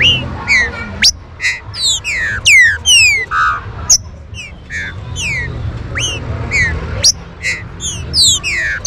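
Green-winged saltator (trinca-ferro) singing: repeated phrases of rapid, falling whistled notes mixed with short buzzy notes, with brief pauses between phrases.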